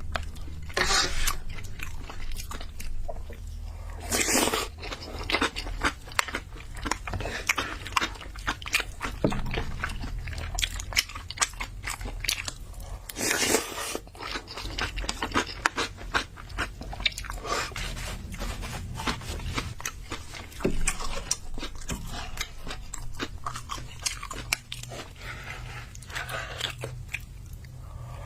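A person eating close to the microphone: chewing and biting, with many small wet clicks and a few louder bursts.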